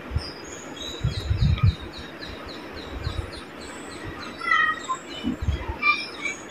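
Small birds chirping and twittering in quick repeated notes, including a run of short falling chirps. Dull low thumps come about a second in and again near the end.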